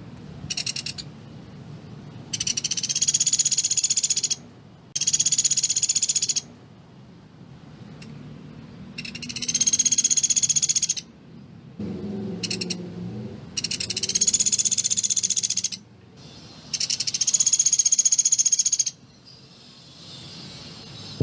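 Pelatuk beras, a small woodpecker, calling in a series of dense rapid-fire trills. Each is a fast string of high notes lasting about two seconds, repeated about six times with short pauses between, with a couple of brief clipped bursts among them.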